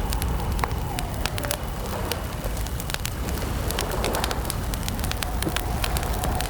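Wood campfire crackling, with frequent sharp pops over a steady low rumble, and a faint wavering call in the background.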